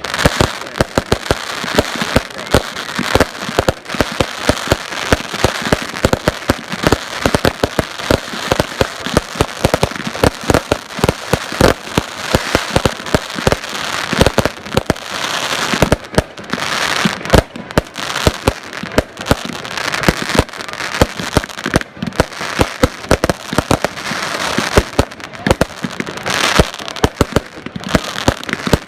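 Fireworks going off in a dense, continuous barrage: many rapid bangs and crackles overlapping throughout.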